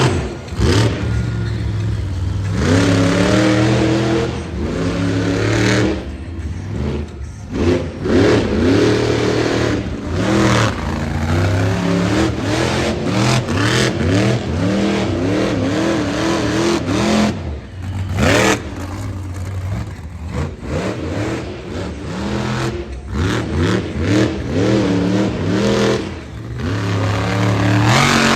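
Monster truck engine revving hard again and again, its pitch rising and falling in quick swoops, with a few brief drops in level.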